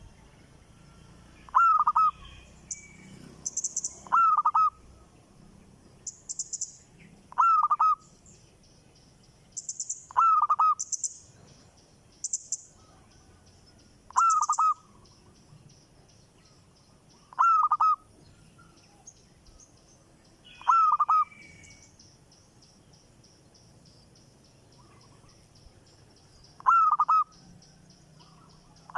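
A bird calling in short, loud, repeated calls about every three or four seconds, eight calls in all, with a long gap near the end. Thinner high chirps come between the calls in the first half.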